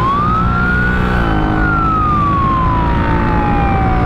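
Police siren on a Honda Africa Twin CRF1000L police motorcycle, wailing. Its pitch climbs over about a second, falls slowly for about three seconds, then starts climbing again near the end. The motorcycle's engine runs underneath, dropping in pitch about a second in.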